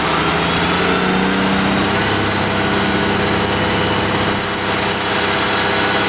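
An engine running steadily at low speed, its pitch holding nearly level with a slight shift about two seconds in.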